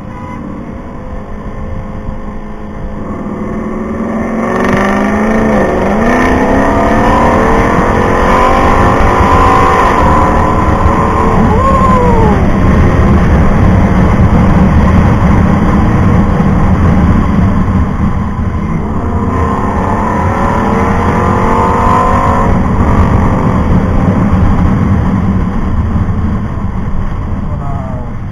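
Motorcycle engine revving hard as the bike accelerates through the gears, its pitch climbing and then dropping back at each shift, over heavy wind rush on the microphone. It builds up about four seconds in and eases off near the end.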